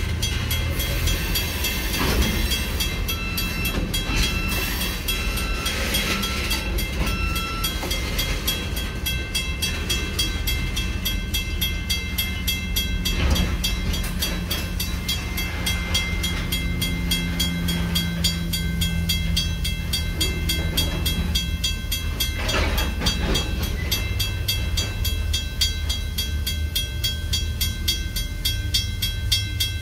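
Freight train of tank cars rolling past across a road crossing, its wheels clattering in a steady run of clicks over a low rumble, heard from inside a waiting car.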